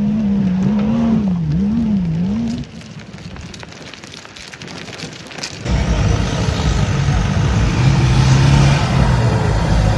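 Off-road vehicle engine revving hard, its pitch rising and falling with the throttle. About two and a half seconds in it drops away to quieter rumbling and a few clicks, then loud engine noise returns near six seconds at a steadier, lower pitch.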